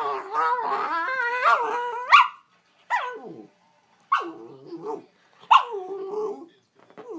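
A dog vocalising: one long, wavering howl-like whine that ends in a sharp high yelp, then three short calls that start high and drop in pitch.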